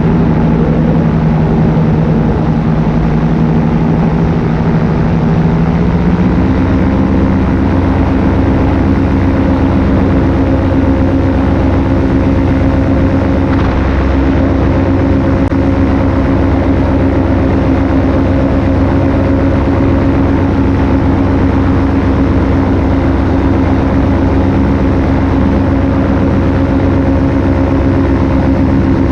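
Paramotor engine and propeller running steadily in flight, heard from the pilot's seat; about six seconds in the engine speed steps up and then holds.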